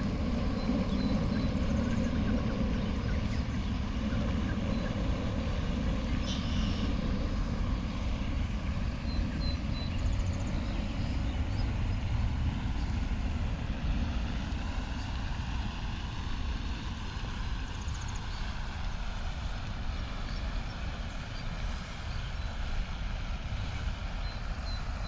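Steady low outdoor rumble, easing slightly in the second half, with a few faint high chirps over it.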